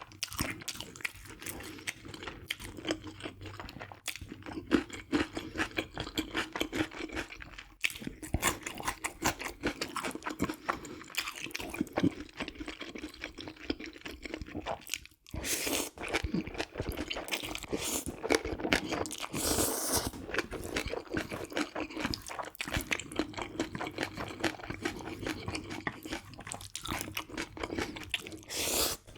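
Close-miked eating: steady crunching and chewing of food, with one brief break about halfway.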